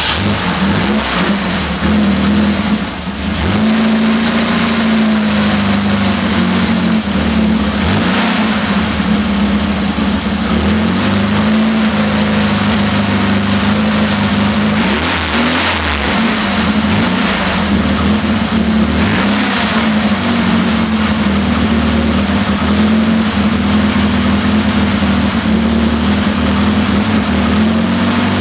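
Isuzu Gemini PF60's engine running steadily just after its first start, its speed wavering briefly a few seconds in and again about halfway through.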